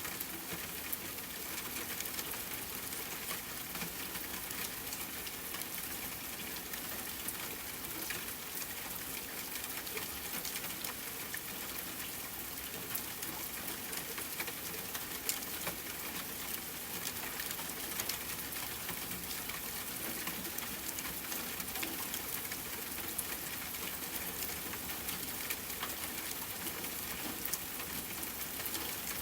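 Steady rain falling on a tent, with a campfire crackling: a constant rush of rain dotted with many small sharp pops throughout.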